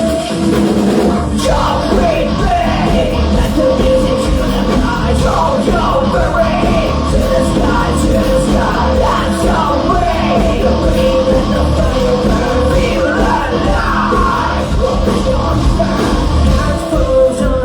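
Live rock band playing a loud song, with yelled vocals over the band.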